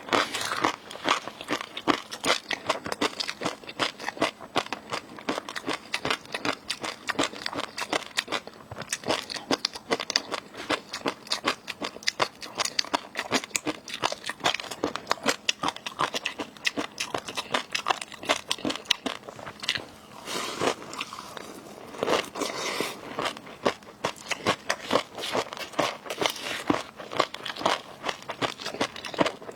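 Close-miked eating sounds of seafood: a person biting, crunching and chewing, with a dense run of sharp crackles several times a second throughout.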